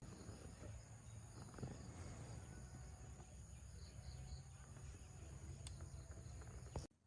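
Faint rural ambience with insects chirring steadily in a high, even drone, over a low rumble and a few small ticks; it all cuts off suddenly near the end.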